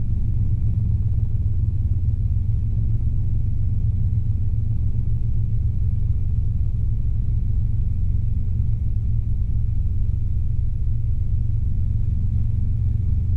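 Robinson R22 helicopter's engine and rotors running steadily under power, recovering from a practice autorotation: a constant low rumble with a faint steady high whine.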